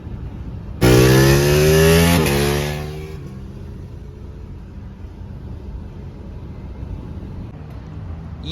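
Ducati Panigale 899's L-twin engine under hard acceleration about a second in, its pitch rising, with a brief break around two seconds in, then fading away within about three seconds. After that, only a low steady rumble remains.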